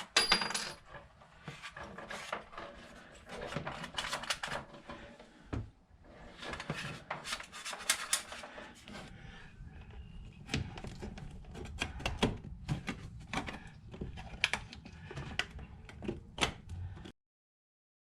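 12-gauge wire being fed through a Wiremold surface raceway channel: irregular rustling and scraping with many sharp little clicks. It cuts off abruptly near the end.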